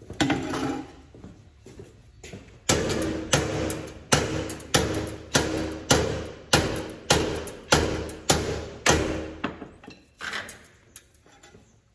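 Hammer blows on the steel of a combine header: a steady run of about a dozen strikes, a little under two a second, each leaving a short metallic ring, starting a few seconds in and stopping near the end, with a couple of lone knocks before and after.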